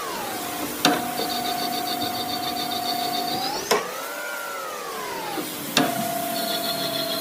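CNC machine running: a motor whine that glides up and down in pitch and then holds steady, broken by three sharp clicks, each followed by a change in pitch. A fast, high ticking runs over the steady stretches.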